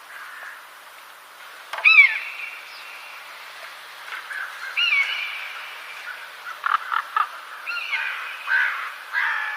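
Birds calling: a series of short calls that arch up and down in pitch, the loudest about two seconds in, with more calls and a few quick clicks through the rest, over a faint steady hiss.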